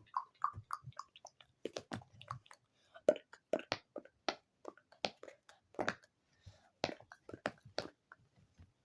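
ASMR mouth sounds made close to the microphone: a quick, irregular run of wet clicks and pops, some sharper and louder than others.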